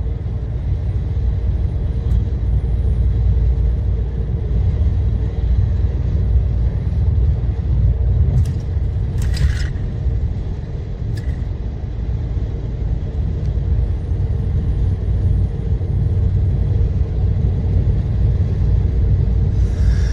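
Steady low rumble of a truck's engine and road noise, heard from inside the cab while driving, with a brief hiss about nine seconds in.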